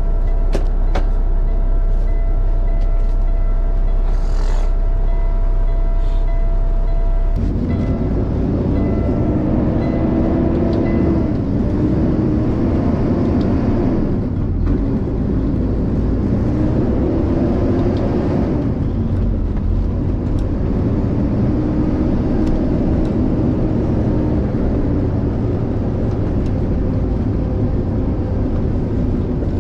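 Dump truck's diesel engine running steadily after start-up. About seven seconds in, the sound changes to a fuller engine note whose pitch rises and falls several times.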